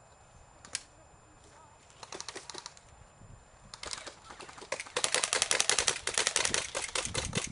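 Airsoft guns firing: a few scattered shots first, then rapid bursts of shots, a fast loud rattle from about five seconds in.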